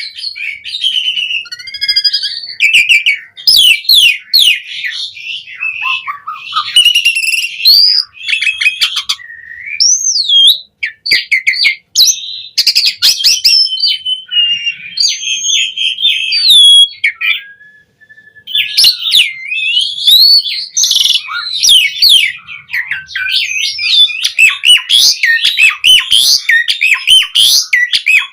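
Asian pied starling (jalak suren) singing a loud, varied song of whistles, slurred glides, rapid chattering note strings and squawks, almost without pause. There is one brief break about eighteen seconds in.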